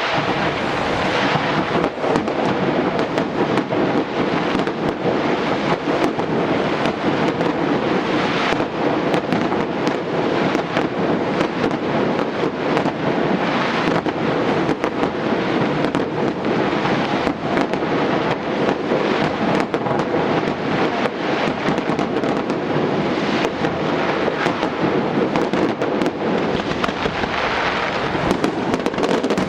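Aerial fireworks exploding in a rapid, unbroken barrage of overlapping bangs and crackles, with no pause between bursts.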